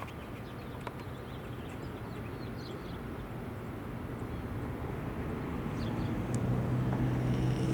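An engine noise that grows steadily louder, like a motor vehicle approaching, with a few faint bird chirps over it.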